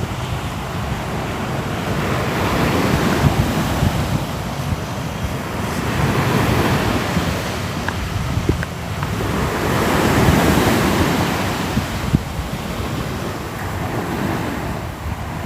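Ocean waves breaking and washing on the shore, the surf swelling and ebbing in slow surges every few seconds, with some wind rumble.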